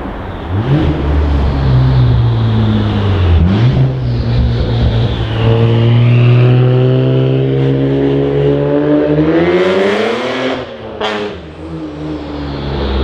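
Toyota JZX90 Mark II's 1JZ-GTE twin-turbo straight-six exhaust under load. The engine note climbs and holds, drops briefly about three and a half seconds in and picks up again, then sweeps up sharply near ten seconds, with a short sharp burst about a second later.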